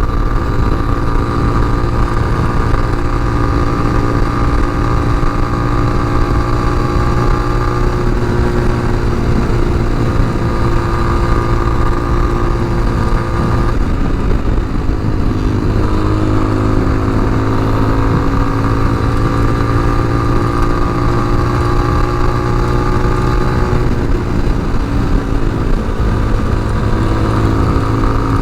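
Tao Tao TBR7 dual-sport motorcycle's engine running at a steady cruise, with wind rushing over the helmet-mounted microphone. The engine note dips and shifts about halfway through, then settles again.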